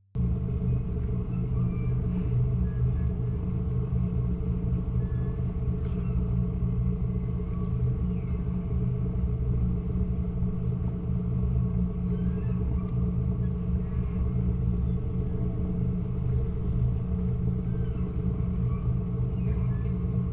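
A crew-transfer boat's engine running steadily, a continuous low drone.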